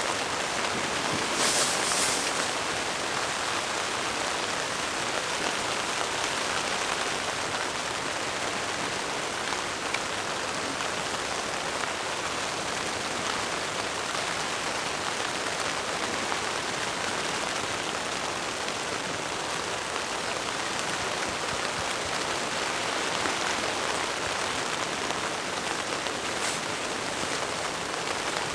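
Steady rain falling, an even hiss, with a brief louder, hissier spell about two seconds in and another near the end.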